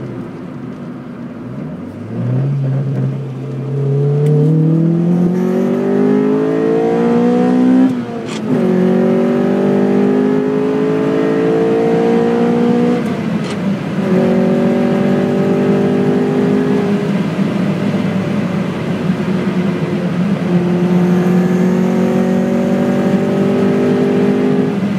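Honda Civic EE9's B16A 1.6-litre DOHC VTEC four-cylinder, heard from inside the cabin, pulling hard with rising revs, shifting up about a third of the way in and again about halfway. Then it holds fairly steady revs, climbing slowly near the end.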